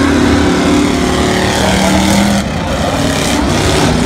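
Demolition derby cars' engines running loud and steady on the dirt track, their pitch shifting a little as they drive.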